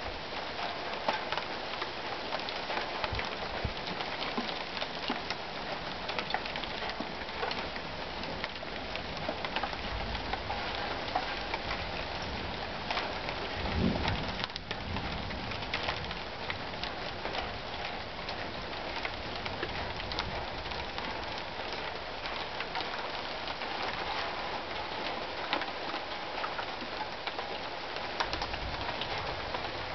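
Heavy rain of a thunderstorm pouring steadily, dense with the patter of individual drops striking surfaces. About halfway through there is one brief, louder low rumble.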